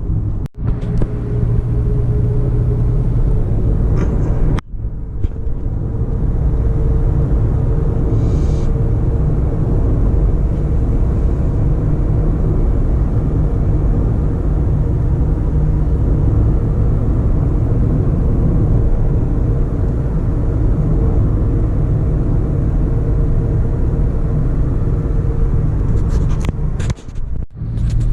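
Steady low rumble of a car on the move, engine and road noise heard from inside the vehicle, cut off briefly three times.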